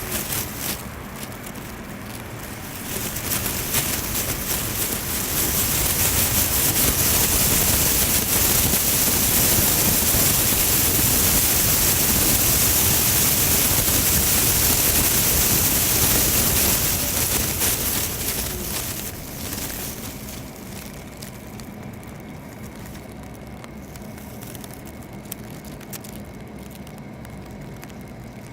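Rain falling on a car with wet-road traffic noise: a long tyre-on-wet-road hiss swells up a few seconds in and fades away after the middle, leaving steady rain noise.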